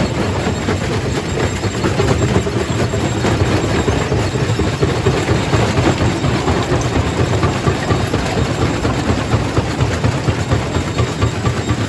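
Quarry primary rock crusher running under load: a steady heavy machine hum with continual clattering and knocking of stone being crushed.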